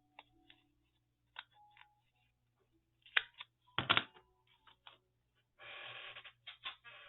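Paper being handled, with small clicks and a second of rustling, and one loud sharp snap about four seconds in as a corner rounder punch cuts through the cardstock.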